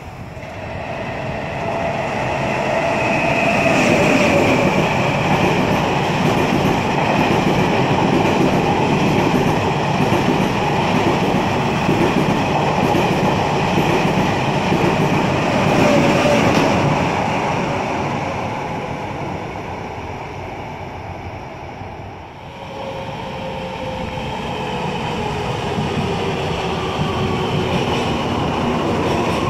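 A train running past on the rails, its wheel and track noise building up loud, easing off about twenty seconds in, then swelling again as another train approaches, with faint squealing tones from the wheels.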